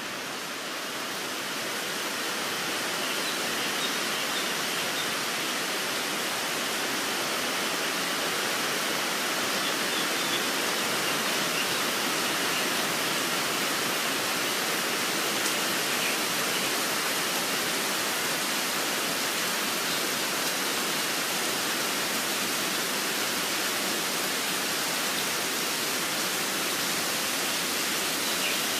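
Steady rain, rising over the first couple of seconds, with a few faint bird chirps now and then.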